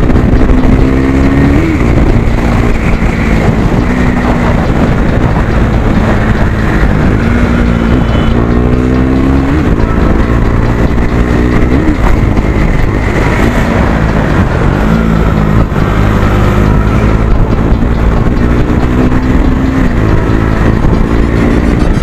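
KTM Duke 390's single-cylinder engine running with the dB killer taken out of its exhaust, so the exhaust is unbaffled. The engine note climbs and then drops sharply several times.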